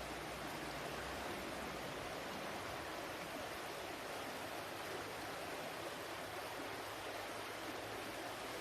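Flowing water rushing steadily, an even, unbroken wash of sound with no distinct splashes or drips.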